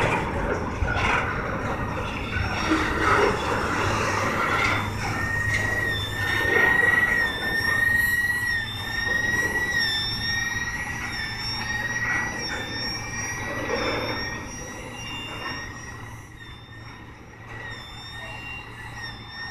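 Double-stack freight cars rolling past: wheels knocking over the rail joints and crossing, over a rumble. From about five seconds in, a steady high-pitched wheel squeal wavers slightly and holds on. The sound eases off as the train's tail draws away.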